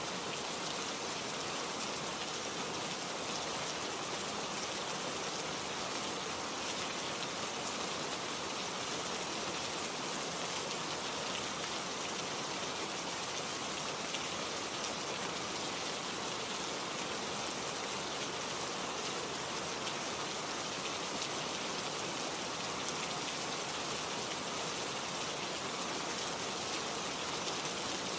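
Steady rain falling, a constant even hiss with the patter of drops on a surface.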